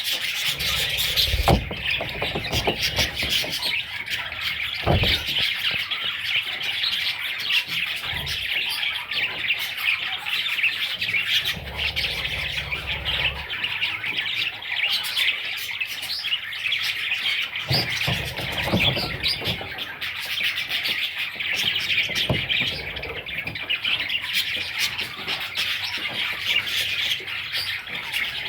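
Budgerigar chicks chirping and squawking in a dense, continuous chatter, with a few soft thumps.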